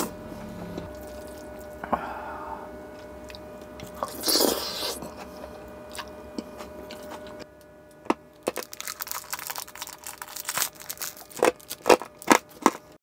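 Close-up eating sounds: a person biting and chewing crunchy fried food, with a burst of noise about four seconds in and a run of crisp crunches in the second half.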